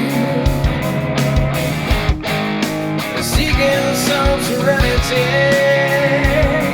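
Rock band playing an instrumental passage: electric guitars over bass guitar and a steady drum beat.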